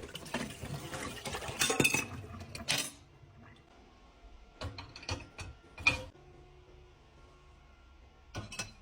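Dishes and cutlery clattering and clinking as they are loaded into a dishwasher, densest in the first three seconds, then a few separate knocks around the middle and near the end. A steady low hum from cryptocurrency mining rigs runs underneath.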